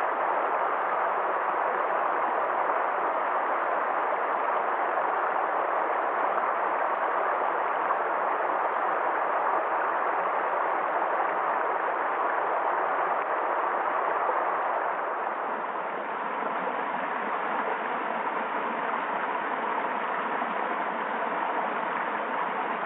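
Water flowing down a wadi stream: a steady rushing and gurgling.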